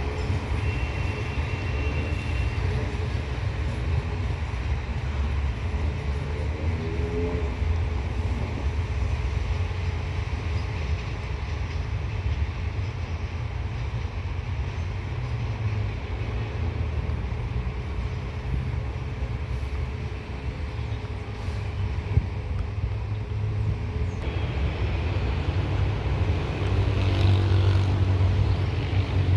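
Passenger train running with a steady low rumble, growing louder near the end.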